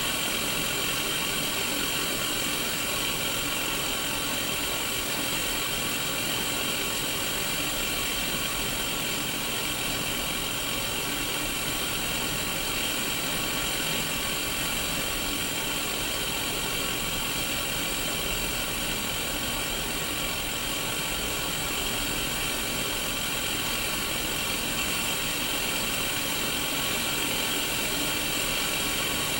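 Sony Mega Watchman black-and-white mini CRT television playing white-noise static through its small speaker: a steady hiss, strongest in the upper middle, with faint steady tones running through it.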